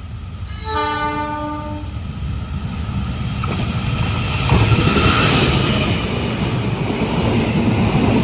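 Train's horn sounds one blast of just over a second, a chord of several notes. The train then comes up and passes with a building rumble and rushing noise, and the clatter of wheels on the rails.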